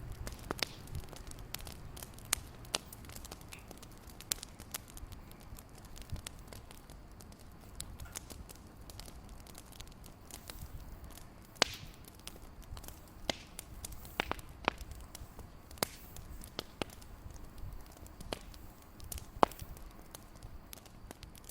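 Fireplace fire crackling: irregular sharp pops and snaps, a few louder than the rest, over a low steady rumble.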